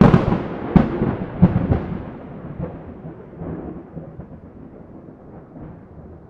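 A thunderclap starts suddenly with a sharp crack, and three more cracks follow within the next two seconds. A long rumble then slowly fades.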